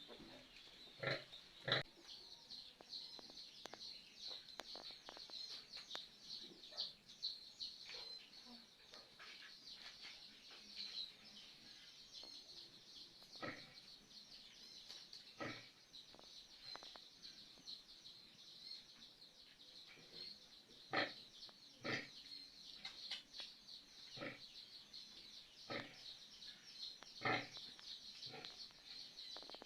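Pigs giving short calls every second or two over a steady high-pitched chirping.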